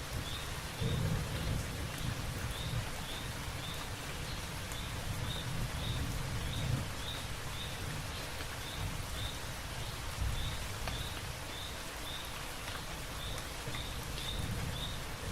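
Light rain falling on leaves, a steady patter. A short high chirp repeats about every half second through it.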